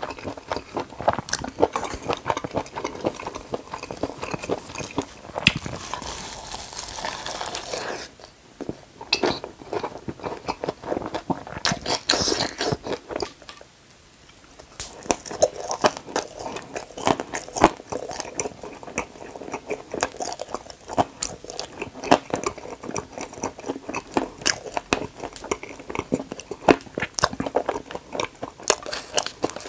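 Close-miked eating sounds: chewing a perilla-leaf wrap of spicy stir-fried webfoot octopus and pork belly, then, after a brief quiet gap about halfway, biting into and chewing blue space jelly balls. Many short sharp mouth clicks.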